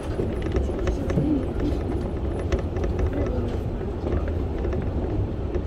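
Running noise of a Keio 1000 series electric multiple unit heard from the cab: a steady low rumble of wheels on track, with scattered short clicks and rattles.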